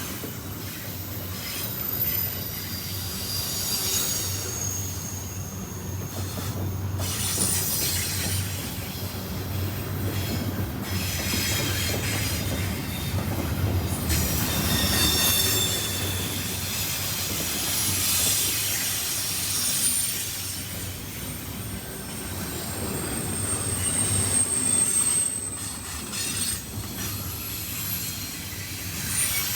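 CSX freight train cars rolling past on the rails, a continuous rumble, with high thin wheel squeals that come and go.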